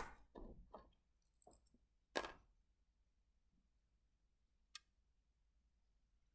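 A few soft clicks and knocks in the first second, a louder knock about two seconds in, then a single faint click; otherwise near silence.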